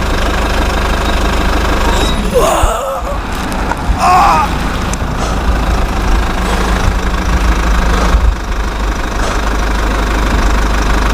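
Engine running steadily with a low rumble, with two short high squeals about two and four seconds in.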